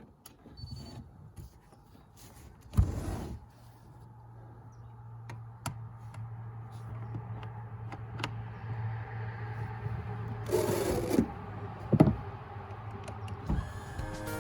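Minn Kota Ulterra trolling motor's electric motor running with a steady hum that grows slowly louder, after a sharp knock about three seconds in. Scattered clicks run through it, and another sharp knock comes about twelve seconds in.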